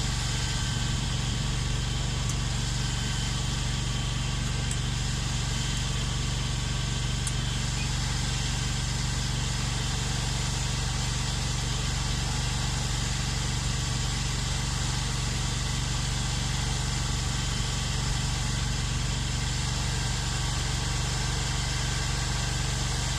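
Ventrac compact tractor's engine running steadily, with no change in speed or loudness.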